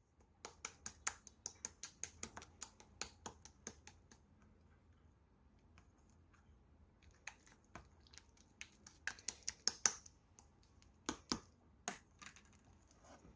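Soft pink slime being pressed and poked with fingers, giving off small sharp clicks and pops. There is a quick run of them, a pause of a few seconds, then another irregular run.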